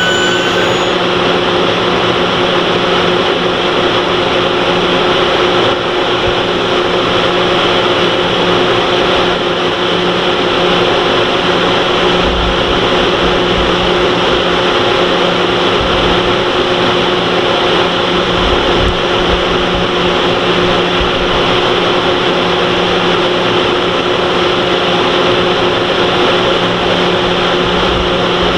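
The Train Suite Shiki-shima standing at the platform after stopping, its on-board equipment giving a loud, steady hum with fixed tones over a constant drone. A high brake squeal dies away in the first second.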